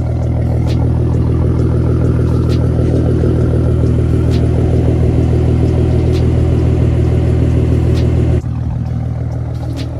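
Mustang 3.7 L V6 idling steadily through a BBK catted X-pipe and straight pipes with no mufflers or resonators, a loud, deep exhaust note. Its level drops suddenly about eight and a half seconds in.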